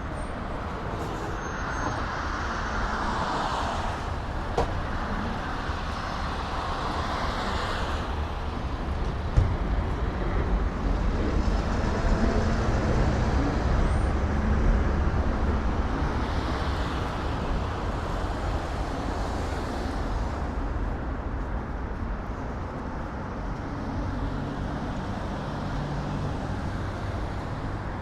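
Road traffic in a city: a steady low rumble with vehicles swelling past and fading away, a few seconds each, and an occasional single knock.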